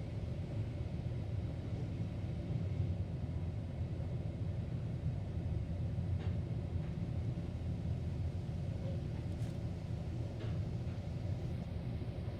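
Automatic car wash machinery rumbling steadily, heard from inside the car's cabin, with a few faint clicks.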